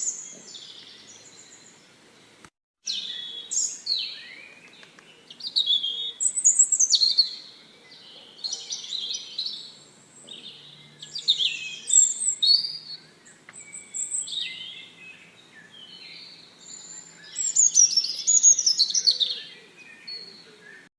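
Songbirds chirping and singing in repeated high, falling phrases, with a brief cut to silence about two and a half seconds in.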